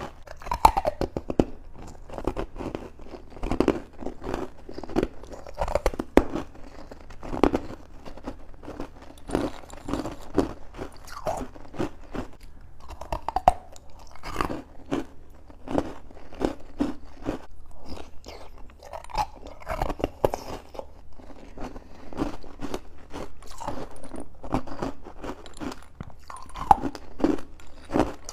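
Close-miked chewing of juice-soaked freezer frost: crisp, irregular crunching and crackling as the icy frost is bitten and ground between the teeth, with louder crunches every second or two.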